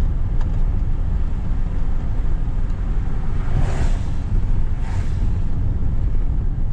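2012 Ford F250's 6.2-litre gas V8 running steadily with a low rumble, with wind buffeting the microphone; two brief hissing swells about three and a half and five seconds in.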